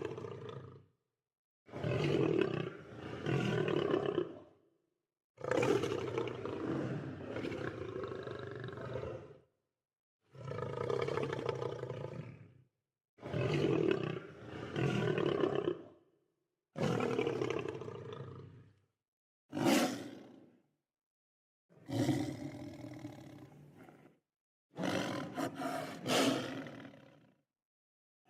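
Lion roaring and growling: a run of about nine separate rough calls, each one to four seconds long, with short silent gaps between them and one very short call near the middle.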